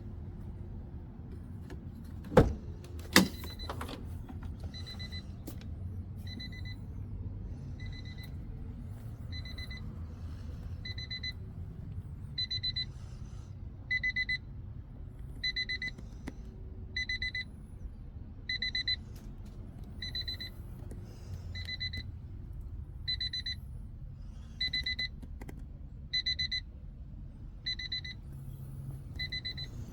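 Two sharp knocks, then a car's electronic warning chime beeping in short, even tones about every second and a half.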